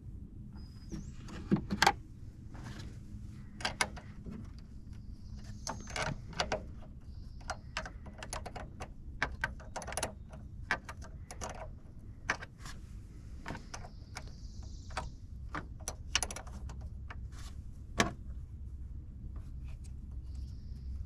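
Irregular clicks, clanks and knocks of hand tools and metal parts being handled while working on a car, with faint bird chirps now and then.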